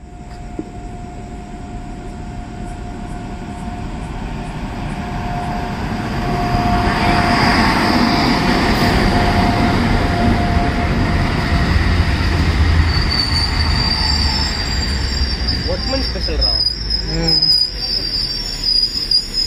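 Indian Railways WAP-7 electric locomotive running past along a platform, growing louder about six seconds in as it draws level. Its coaches then roll by, with a high-pitched wheel squeal over the last few seconds.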